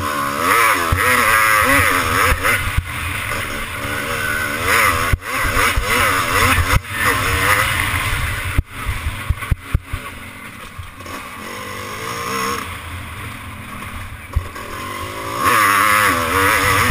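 Motocross motorcycle engine being ridden hard, the revs rising and falling again and again through the turns and jumps, with several sharp knocks from the bike along the way.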